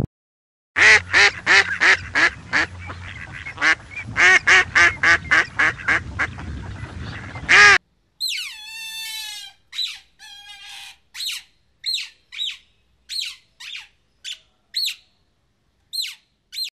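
Mallard duck quacking repeatedly, loud quacks about two a second. After a sudden cut, a sea otter's high-pitched calls take over: one long falling squeal, then short sharp chirps about twice a second.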